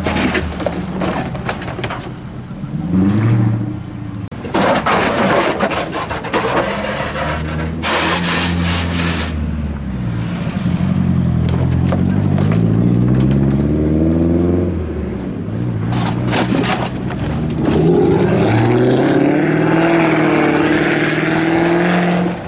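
Car engines revving loudly through modified exhausts, the pitch rising and falling again and again, with a few short bursts of harsh noise in between.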